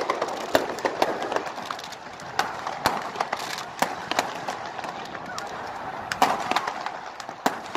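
New Year fireworks and firecrackers going off in irregular sharp cracks and pops, several a second at times, over a steady background din.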